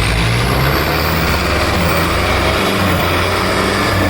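Tractor diesel engines labouring under heavy load as two tractors pull against each other in a tug-of-war, the engine note rising and falling as they strain.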